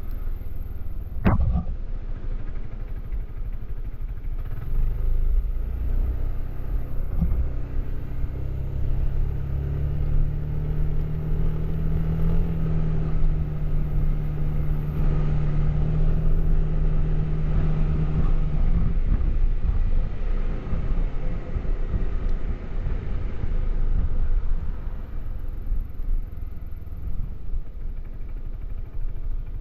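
Suzuki Burgman 400 maxi-scooter's single-cylinder engine running on the move with its stock exhaust: the engine note climbs about a third of the way in, holds steady for several seconds, then drops away, over a constant low rumble. A single sharp knock about a second in.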